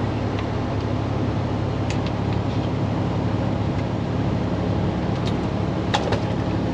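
Semi-truck diesel engine running steadily under way, heard from inside the day cab along with road noise; a few faint ticks are heard about two and six seconds in.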